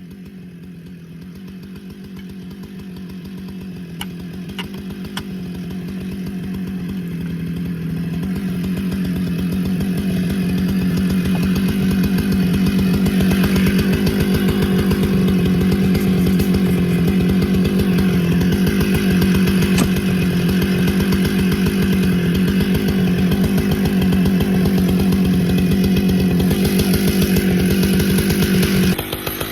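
Husqvarna chainsaw held at full throttle while noodling a large pecan round, cutting along the grain. The sound grows louder over the first ten seconds, holds steady, then drops off about a second before the end as the saw eases off.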